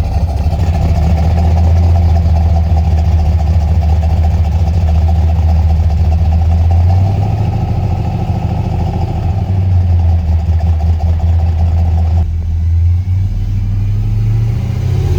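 Oldsmobile 442's engine running under way, a loud steady low rumble heard from inside the car. About twelve seconds in its higher drone drops away as the engine note changes.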